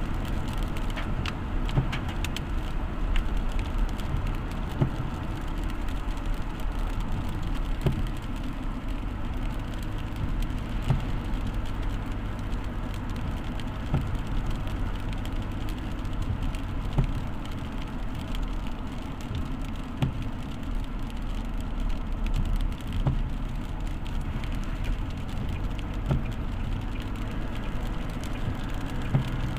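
A road vehicle driving steadily, its engine humming low under even road noise, with scattered small ticks.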